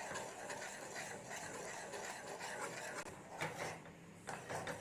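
A utensil stirring and scraping a white sauce of butter, flour and milk in a pan on the stove, in repeated short scraping strokes.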